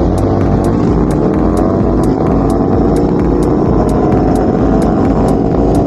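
Drag-racing motorcycle engines running loud, their several engine notes drifting in pitch and rising near the end.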